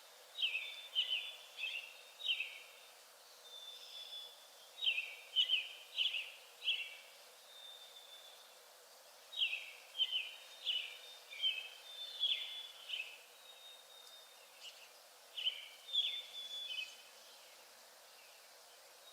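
A small songbird singing four bursts of quick, short chirps that sweep downward, with pauses of a few seconds between them, over a steady background hiss.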